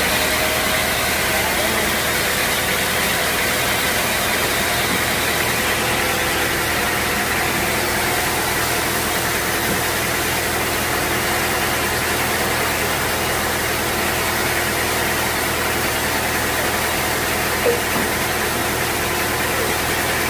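Sawmill machinery running steadily: an even hiss over a low, constant hum, with a short click about seventeen seconds in.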